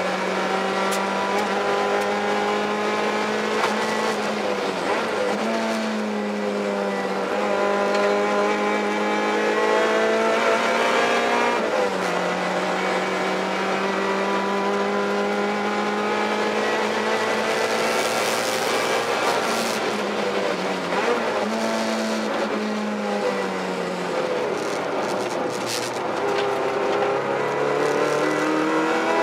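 Freshly rebuilt 1.8-litre Mazda BP-ZE four-cylinder engine in a 1994 Eunos Roadster, running hard at speed on its shakedown: the engine note climbs steadily through the revs and drops sharply several times at shifts or lifts off the throttle.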